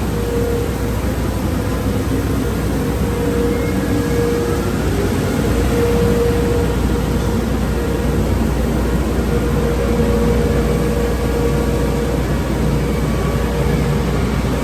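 Automatic car wash tunnel equipment running: a loud, steady rushing noise over a low hum, with a faint tone that comes and goes.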